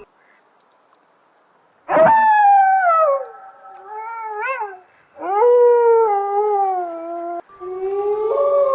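An animal giving long, drawn-out pitched calls, three in a row after about two seconds of quiet, each jumping in high and sliding down, with a wavering rise partway through the first.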